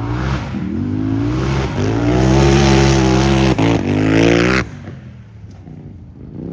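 Unlimited-class UTV race engine revving hard under full throttle, its pitch climbing, with a brief break about three and a half seconds in, before it drops off suddenly to a much quieter engine sound.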